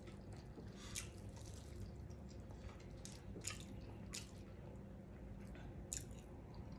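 Faint close-up mouth sounds of a person chewing battered fried fish: a handful of soft wet smacks and clicks spread out every second or so.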